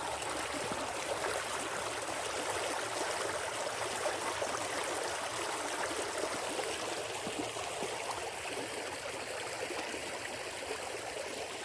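Creek water running over rocks, a steady rush that fades slightly near the end.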